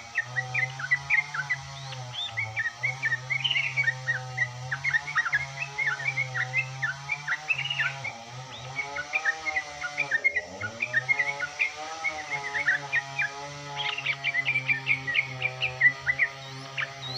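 Yellow-vented bulbul singing vigorously: a rapid, unbroken run of short chirps and whistled notes, over steady background music.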